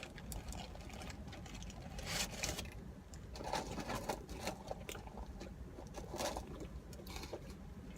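Close-up eating sounds of a cheeseburger being chewed: scattered small wet clicks and soft rustles, with a couple of slightly louder bursts about two and six seconds in.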